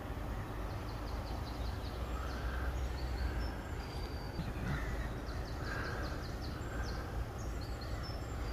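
Outdoor birdsong: rapid high trills, repeated a few times, with scattered harsher calls, over a steady low rumble.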